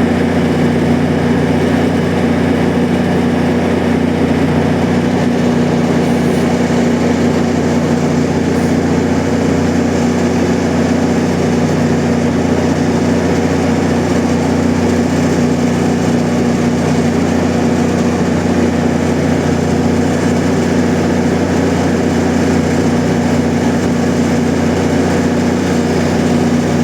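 MP40 diesel locomotive idling at a standstill: a steady, even engine drone with a low hum that holds constant throughout.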